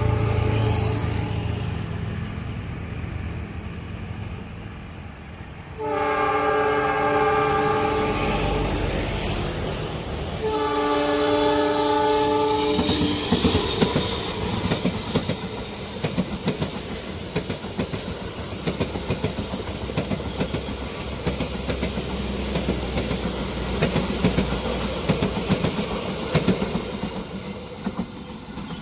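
Diesel-hauled passenger train passing close by: the locomotive's engine rumbling low as it nears, two long blasts of its multi-tone horn about six and ten seconds in, then a long run of wheel clicks over the rail joints as the carriages go by.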